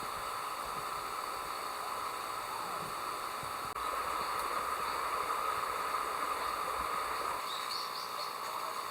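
Steady chorus of crickets and other autumn insects, a dense continuous trilling, with a few short higher chirps near the end.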